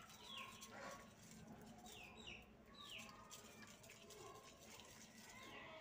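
Faint bird chirps: short downward-sweeping calls repeated several times, over quiet room tone.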